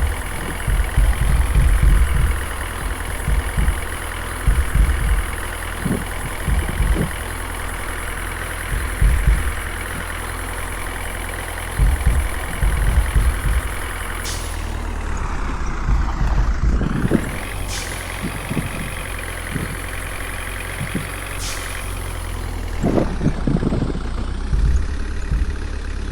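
Water tanker truck's engine running steadily, with irregular low thumps. The sound shifts about halfway through.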